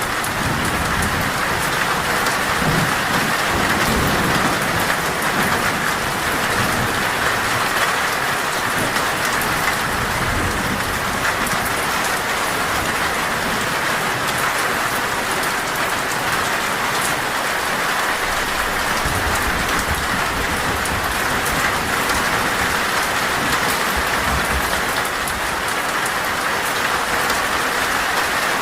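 Torrential rain falling on a metal roof, a steady, dense hiss, with a few low rumbles of thunder now and then.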